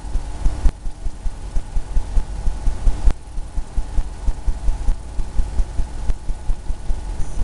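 A paintbrush working oil paint onto a stretched canvas, giving rapid, irregular low thuds several times a second.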